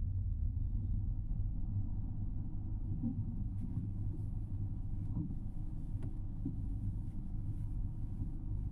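Low, steady rumble inside a car's cabin while the car waits at a red light, its engine idling.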